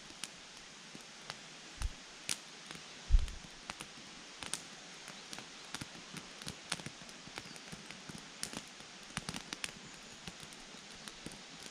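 Wood campfire crackling: irregular sharp pops and snaps over a faint steady hiss, with one louder low thump about three seconds in.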